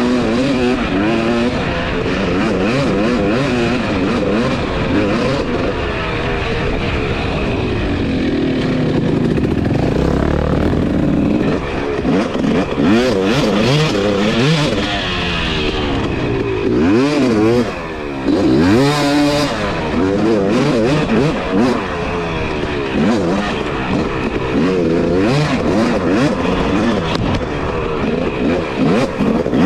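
Two-stroke Husqvarna TC250 dirt bike engine being ridden hard, its pitch rising and falling again and again as the throttle is worked and the gears change.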